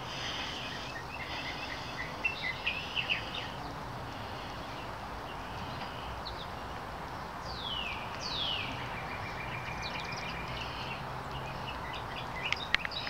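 Birds chirping over a steady outdoor background hiss, with two downward-sweeping calls about eight seconds in. A few light clicks come near the end.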